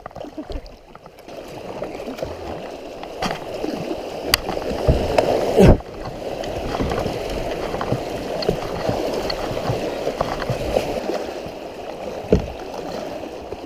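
Rushing water of a river rapid around a kayak, building up a second or two in. Several hard knocks cut through it, the loudest about six seconds in.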